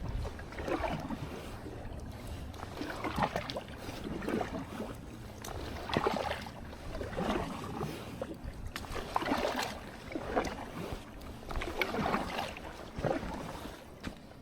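Kayak paddle strokes splashing into the water in a steady rhythm, about one stroke every second or so, over a low wind rumble.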